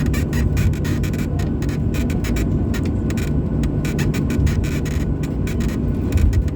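Cabin noise aboard a Boeing 737-800 in flight: a steady low rumble of the CFM56 engines and airflow with a constant low hum, and a brief louder bump about six seconds in.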